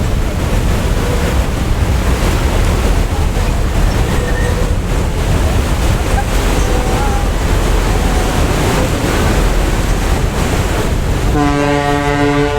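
Steady rumble of wind and waves on the microphone at the waterfront. Near the end a deep horn starts one long blast.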